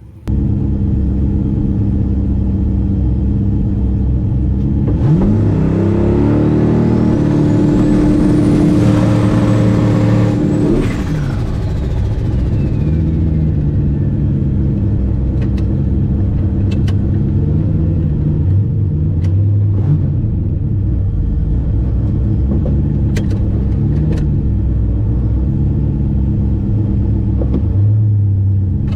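Turbocharged LS V8 drag car running loud, then launching about five seconds in. Engine pitch climbs fast and a turbo whistle rises high and holds through a run of roughly six seconds. The engine then drops off and the whistle falls away, leaving the V8 running at low revs with a few sharp pops.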